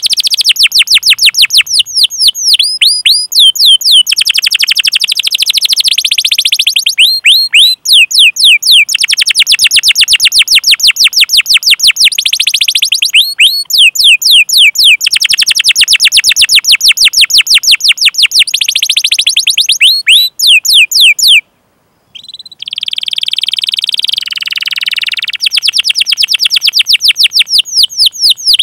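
Domestic canary singing long runs of rapid, evenly repeated, sharply falling 'cuit cuit' call notes and fast rolling trills. About 21 seconds in the song breaks off briefly, then a denser warbled phrase gives way to the rapid notes again.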